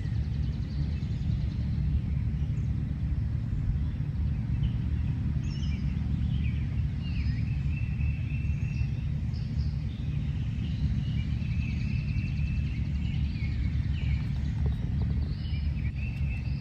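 Birds chirping repeatedly, short high chirps and sweeps, over a steady low rumble.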